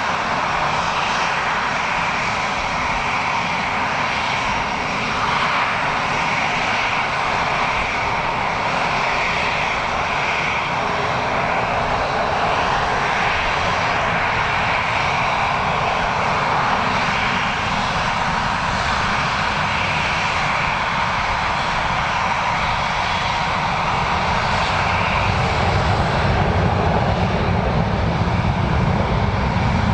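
Airliner engines running steadily in a dense, even rush with a higher whine in it, the low rumble growing louder over the last few seconds.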